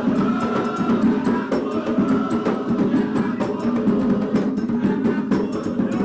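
Candomblé ritual drumming: atabaque hand drums playing a fast, steady rhythm for Oxum, with a sharp clicking percussion beat over it.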